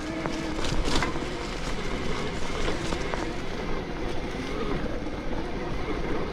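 Electric mountain bike being ridden over a trail covered in wet leaves: a steady rush of tyre and riding noise with a few sharp knocks and rattles about a second in.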